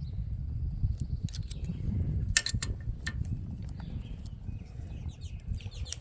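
Wind buffeting the microphone, a steady low rumble, with a few sharp clicks over it, the loudest about two and a half seconds in.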